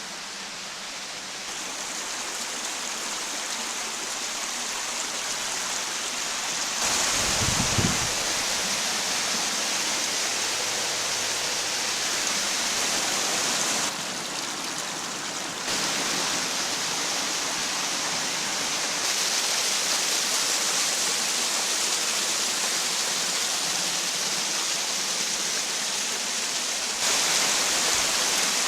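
Creek water rushing and splashing over rocks and small falls, a steady rushing hiss that steps louder and softer a few times. A brief low rumble about eight seconds in.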